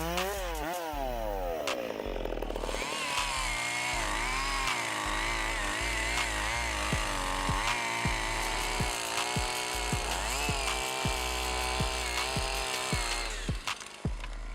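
Two-stroke chainsaw engine running and cutting wood, its pitch dipping and rising as the chain bogs into the cut and picks up speed again. Background music with a steady beat plays under it.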